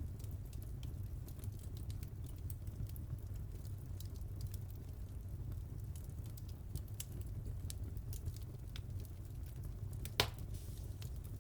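Wood fire crackling: a low steady rumble of flames with scattered small pops and snaps, and one louder pop about ten seconds in.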